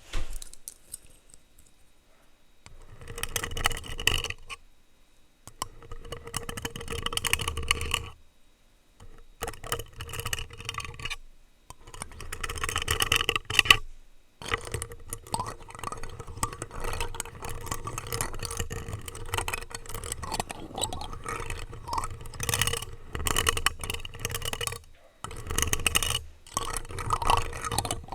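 Plastic utensils scraped and tapped directly on a microphone. Stretches of dense, scratchy rubbing and clicking are broken by several short pauses.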